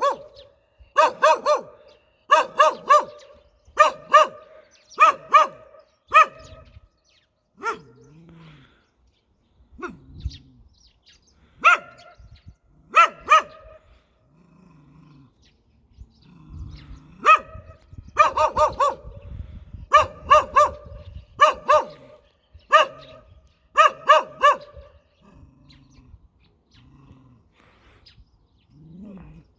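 A dog barking aggressively in quick doubles and triples about once a second, with a few pauses between runs and quieter low sounds in the gaps.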